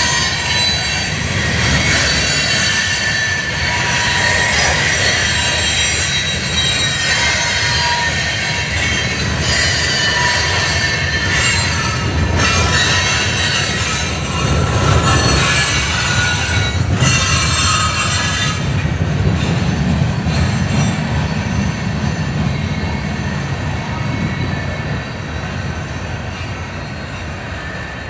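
Kansas City Southern freight train rolling past, its railcar wheels squealing against the rails over the steady rumble. About 19 seconds in the high squeal drops away, and the rumble slowly fades toward the end.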